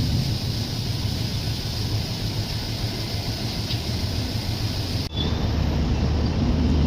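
Steady rumble and hiss of a moving train. About five seconds in the sound breaks off abruptly and resumes as a duller rumble with less hiss.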